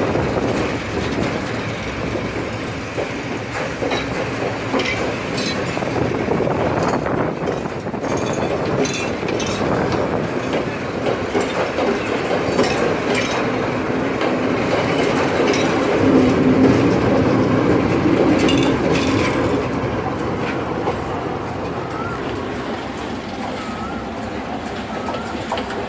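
Udaya Devi express passenger train running on the line, a steady rumble with the clicks of wheels passing over rail joints. It eases off a little over the last few seconds.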